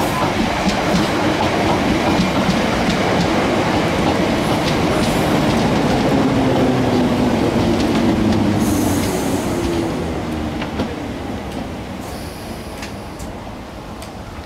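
Electric multiple-unit passenger train passing through a station, a dense rush of running noise with the wheels clicking over rail joints. The noise fades steadily over the last four or five seconds as the train draws away.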